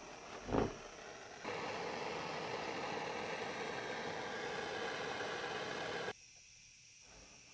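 Steady hiss of a flame heating a 1949 Coleman 242C lantern's generator and burner tubes before the mantle is lit. It starts suddenly about a second and a half in and cuts off abruptly about six seconds in, after a soft thump near the start.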